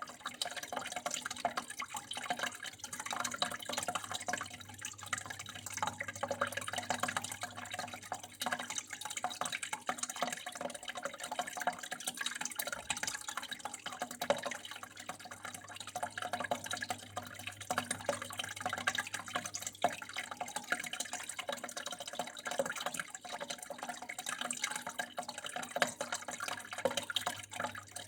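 Water flowing and splashing steadily, a dense, unbroken trickle.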